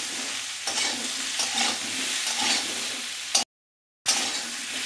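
Diced ash gourd sizzling as it fries in a little oil in a kadai, with turmeric and salt, while being stirred. The sound cuts out completely for about half a second, about three and a half seconds in.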